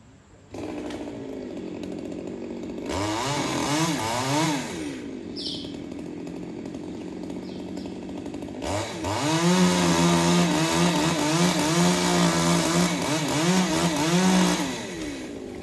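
Chainsaw engine running: it starts up suddenly, is revved briefly once, drops back to idle, then is held at high revs for about six seconds with a wavering pitch before easing off near the end.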